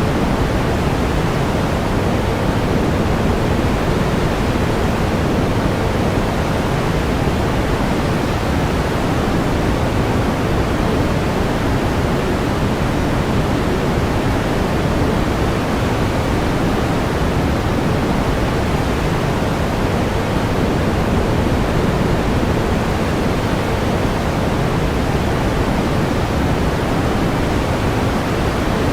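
Steady pink noise: an even, unbroken hiss-like rush, heavier in the low end than white noise, with no change in level.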